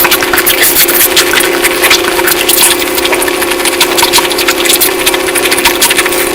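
Close-miked eating: dense, irregular wet chewing and mouth clicks, over a steady low hum.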